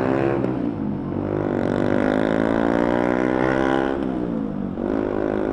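Motorcycle engine accelerating through the gears, its pitch rising steadily and dropping sharply at each gear change, twice, with wind noise rushing over it.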